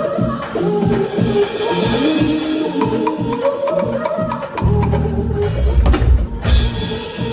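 A live band playing: a drum kit keeps a beat under sustained pitched instrument notes. A heavy bass line comes in strongly a little past halfway.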